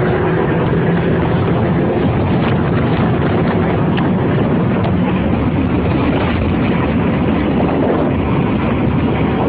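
Loud, steady roar of tornado-force wind against a car, with a few faint ticks.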